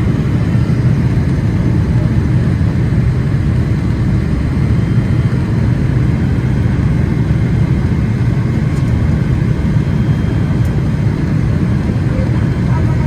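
Steady low rumble of engine and airflow noise heard inside the cabin of a Boeing 777-300ER in flight, holding an even level without change.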